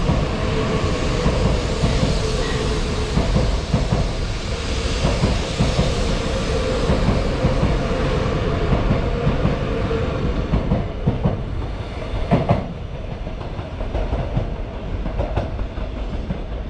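E4 series MAX double-decker Shinkansen rolling along the platform: a steady low rumble with a hum that fades about ten seconds in. A few sharp clacks of the wheels come about two-thirds of the way through.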